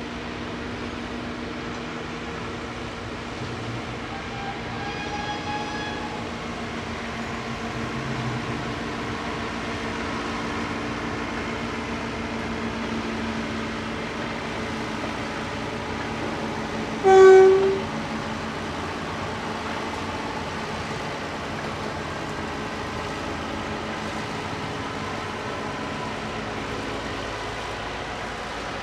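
A short, loud locomotive whistle blast about two-thirds of the way through, over a steady mechanical hum with low running tones. A fainter whistle note sounds around five seconds in.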